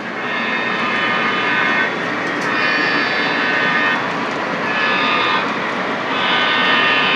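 Model diesel locomotive's onboard electronic horn sounding two long blasts, a short one and a long one, the grade-crossing signal, from MTH Proto-Sound 2 sound units in two CSX DDA40X models. Beneath it, the steady diesel engine sound and the rumble of the loaded coal train's wheels on the track.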